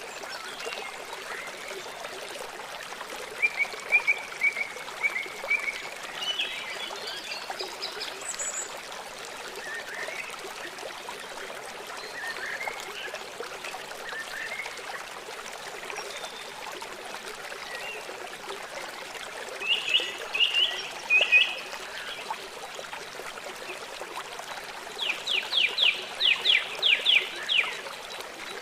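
Small songbirds calling over the steady trickle of running water: a short run of chirps a few seconds in, a louder cluster of calls around the middle, and a fast series of about ten quick notes near the end.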